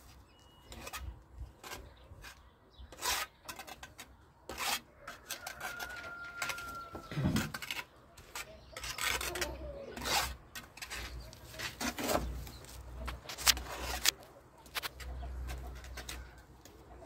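Irregular scraping and sharp knocks of hand work on masonry, tools rasping over mortar and stone.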